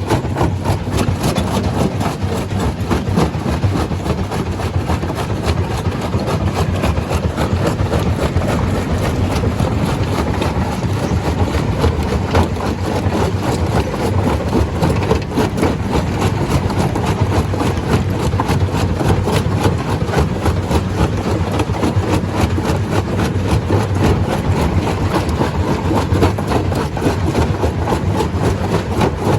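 Stone crusher running steadily: a heavy engine drone under a dense, continuous clatter of knocks.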